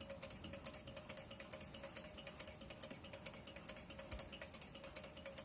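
Small plate-type Stirling engine, heated by hot water from below, running with a rapid, even ticking from its moving parts. A faint steady tone sits under the ticking.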